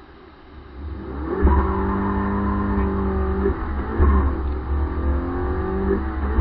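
Subaru BRZ's naturally aspirated 2.0-litre flat-four engine accelerating hard: it rises from quiet about a second in, climbs in pitch, dips at a gear change near the middle and climbs again, with another shift near the end.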